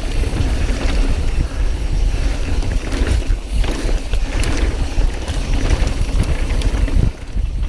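Wind rushing over the camera microphone during a mountain bike descent, with tyres rolling over a dirt trail and the bike rattling and clicking over bumps.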